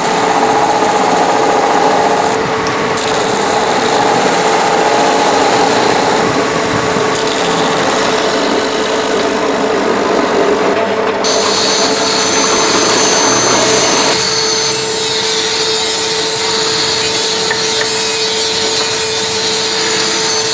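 Woodworking noise: sawing, rasping and power-tool grinding on wood, with a steady hum running through. The texture changes abruptly about eleven and again about fourteen seconds in.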